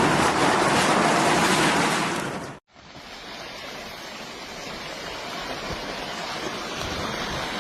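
Loud, steady rushing of water that cuts off abruptly about two and a half seconds in. A quieter, rumbling rush of water then builds slowly.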